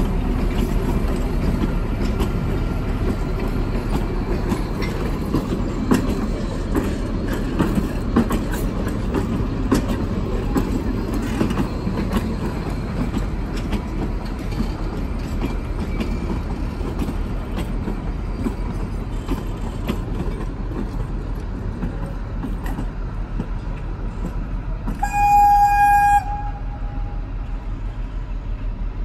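A Kalka–Shimla narrow-gauge train running with a steady low rumble and scattered wheel clicks over the rails, mostly in the first half. Near the end its horn sounds once for about a second.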